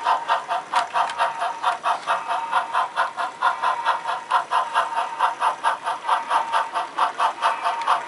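HO scale model steam locomotive's sound chuffing in a steady rhythm of about four to five chuffs a second as it runs light.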